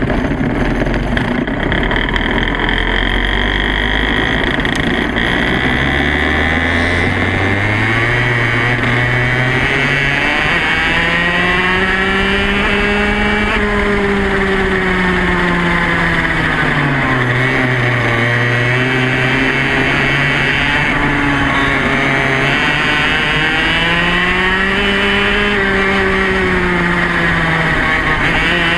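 Yamaha KT100 single-cylinder two-stroke kart engine running hard. Its pitch climbs steadily over the first dozen seconds as the kart picks up speed, then drops, rises again and dips near the end as the kart slows and accelerates.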